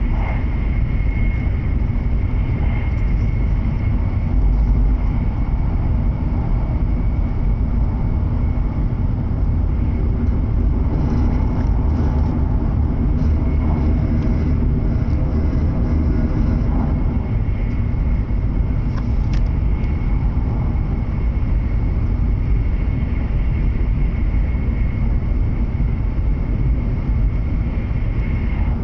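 Running noise of a W7 series Shinkansen heard inside a passenger car: a steady low rumble with a thin, even whine above it, and a few extra ringing tones from about eleven to seventeen seconds in.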